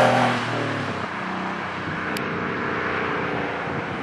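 Porsche 964 Carrera's air-cooled flat-six with a Fabspeed dual-outlet Maxflo muffler, going past at full acceleration in third gear. The exhaust note is loudest at the start and falls away and drops in pitch within the first second, leaving a steady, fainter rush as the car moves off.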